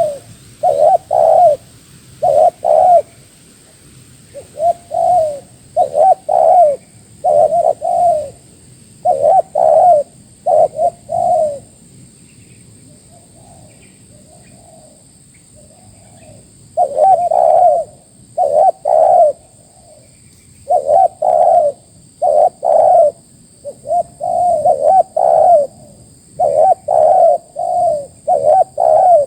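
Spotted dove (tekukur) cooing in repeated phrases of low, rounded coos, with a pause of several seconds about a third of the way through before the cooing resumes.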